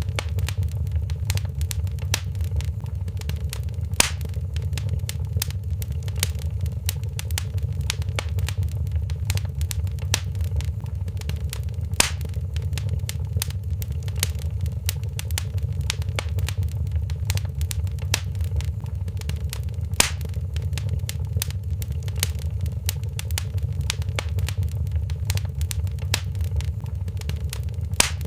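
Fire in a fireplace crackling: dense small crackles over a steady low rumble, with a sharper, louder pop about every eight seconds.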